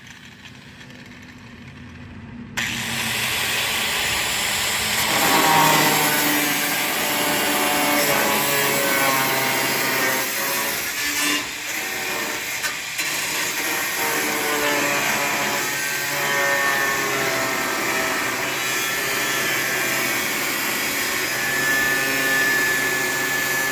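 A power tool starts cutting sheet metal about two and a half seconds in and runs on without pause, a loud steady noise with a whine that shifts in pitch as the cut loads it.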